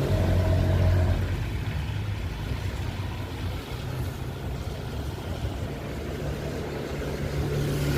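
Cars passing on a rain-wet street, with a steady low rumble from wind on the microphone.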